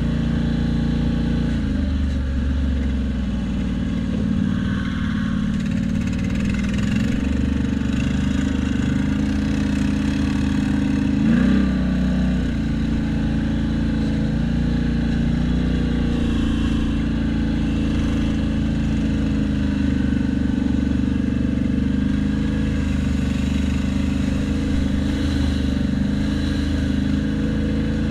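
Motor vehicle engine running steadily, with a brief rise and fall in pitch about eleven seconds in.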